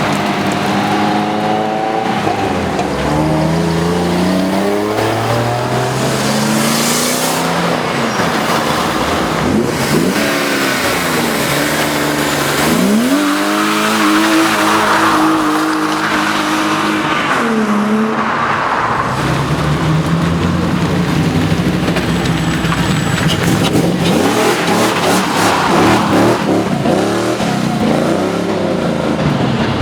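Car engines revving and accelerating hard, pitch climbing and dropping repeatedly, with one sharp climb about halfway through held high for several seconds. Stretches of rough noisy rush come through in the middle and near the end.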